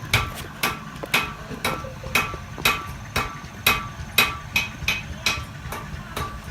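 Blacksmith's hammer striking metal on an anvil in a steady rhythm, about two blows a second, each blow ringing out with a bright metallic ring.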